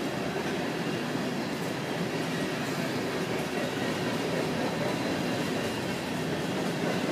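Covered hopper cars of a Canadian Pacific grain train rolling past at a steady pace: a continuous, even rolling noise of steel wheels on the rails.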